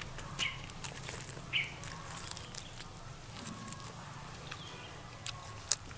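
Close-up chewing and biting on a piece of pork rib: scattered crisp clicks and crunches, with a couple of short squeaky mouth sounds about half a second and a second and a half in.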